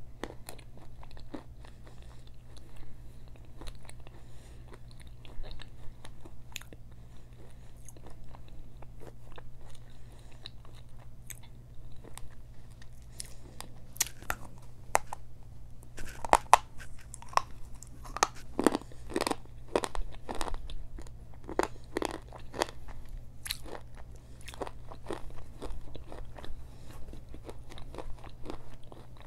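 Close-miked biting and chewing of hard, chalky Mexican clay pot treats: crisp cracks and crunches, scattered at first, then denser and louder with sharp bites through the middle.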